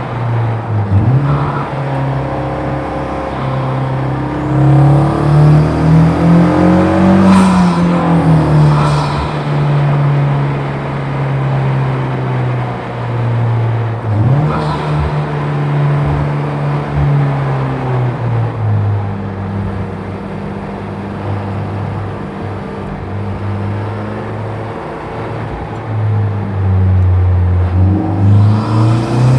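Honda Civic FK8 Type R's turbocharged 2.0-litre four-cylinder, with bolt-on mods, being driven hard on a race track. The engine note climbs under acceleration and drops sharply at gear changes and braking several times, with a steadier lower-revving stretch in the second half.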